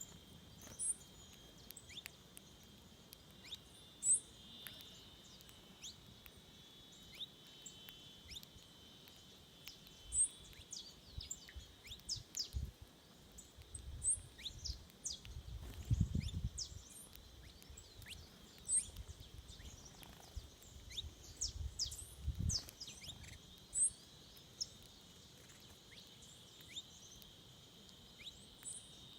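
Wild birds giving short, sharp high chirps every second or two over a steady high insect buzz. Two brief low rumbles break in about halfway through and again a few seconds later.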